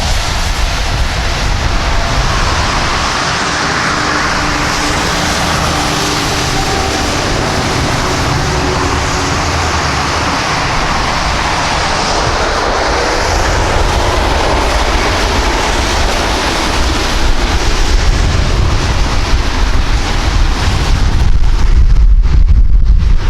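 Jet airliner passing close by, a loud steady roar with a faint whine in it. Near the end a deep rumble swells and wind buffets the microphone.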